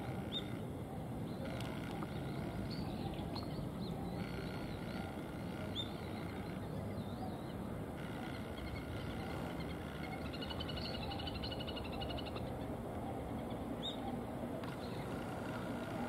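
Steady low background rumble with scattered short, high bird chirps, and a rapid pulsing trill of bird notes lasting about two seconds past the middle.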